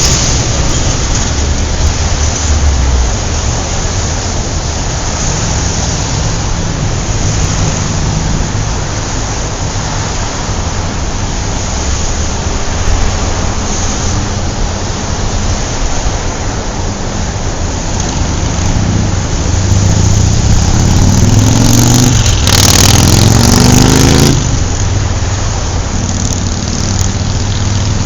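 Car engine running steadily, with pitch rising in revs about twenty seconds in, then settling back.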